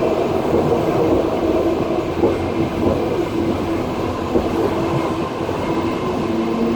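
Passenger train wheels running on the rails, heard from inside the carriage: a steady rumble with a constant droning tone and a few light knocks.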